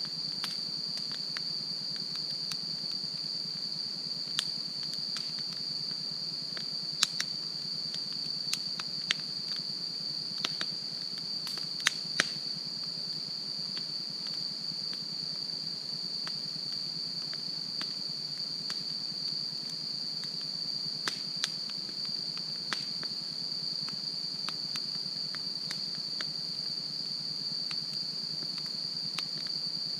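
Wood fire crackling, with scattered sharp pops and snaps, over a steady high-pitched insect trill.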